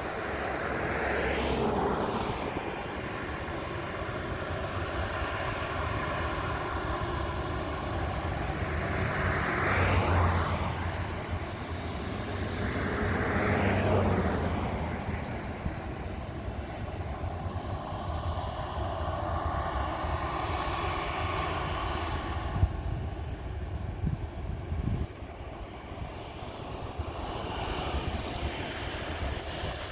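Boeing 737-800 jet engines (CFM56-7B turbofans) running, heard from outside the aircraft as a continuous jet roar that swells and fades several times. There is a brief sharp knock about two-thirds of the way through.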